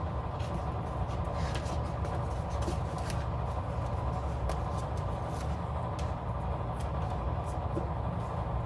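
Steady low background hum, with scattered light ticks and rustles of paper stickers and a pen being handled on a planner page.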